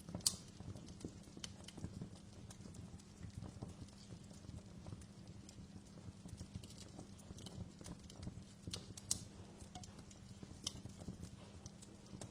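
Wood fire crackling: scattered, irregular sharp pops over a low, steady rumble, with a louder pop just after the start and another about nine seconds in.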